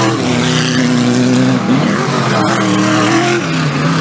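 4WD off-road race car engine running hard under load, its pitch holding, rising quickly a little before two seconds in, then dropping about three and a half seconds in as it shifts or lifts.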